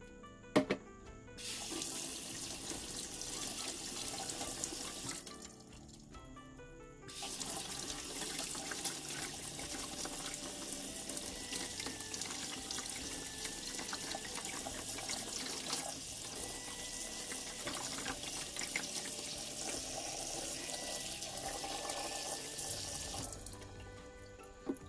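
Tap water running into a kitchen sink while a whole pollock is rinsed under it. After a sharp knock about half a second in, the water starts, stops briefly around five seconds, then runs again until near the end.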